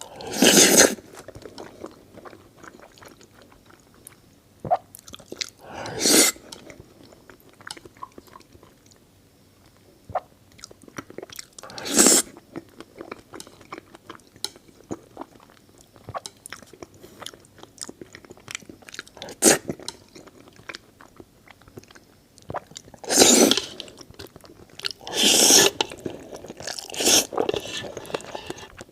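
Close-miked eating: steady chewing with small wet clicks, broken by louder short bites or crunches about every few seconds.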